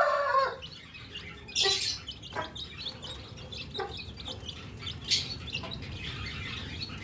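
Aviary birds calling: a few short clucks and chirps at scattered moments, several seconds apart.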